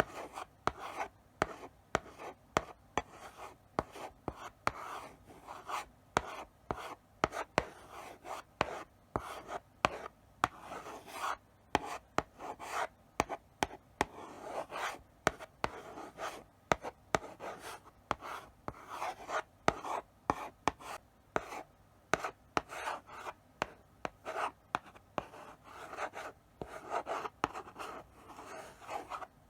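Chalk writing slowly on a blackboard: a run of short scraping strokes with sharp taps where the chalk meets the board, broken by brief pauses between letters.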